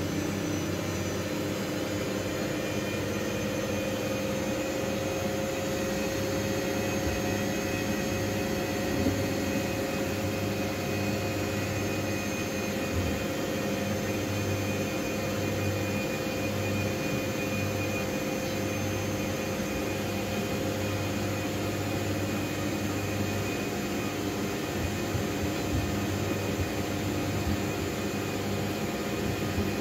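Miele W433S washing machine running: a steady motor whine with several held tones, rising slightly in pitch in the first few seconds, over a low hum that comes and goes, with a few faint knocks.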